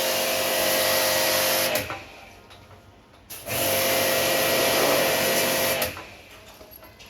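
A small electric motor, like a power tool, running with a steady whine in two runs of about two seconds, cutting off about two seconds in and starting again for a second run.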